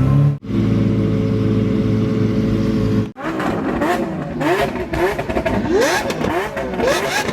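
Car engines: a steady engine note, then after an abrupt cut several sports-car engines revving, their pitch sweeping up and down and overlapping.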